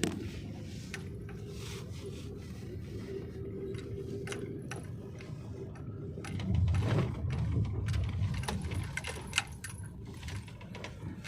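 Car driving, heard from inside: a steady low road and engine rumble with light clinking and rattling. The rumble swells for a couple of seconds around the middle, and there is one sharp click near the end.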